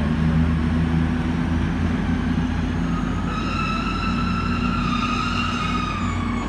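Diesel passenger trains idling at a station platform, a steady low engine hum. About halfway through a single high steady tone comes in over it, holds for about three seconds, then dips slightly in pitch and fades.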